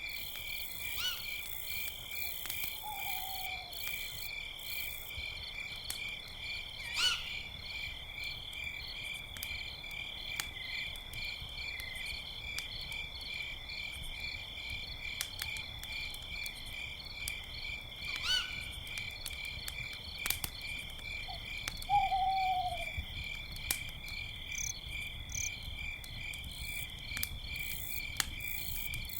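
Crickets chirping steadily, with an owl hooting twice, each a short falling call, one a few seconds in and one near the end. A few short sharp calls and scattered small pops and crackles sit over the cricket chorus.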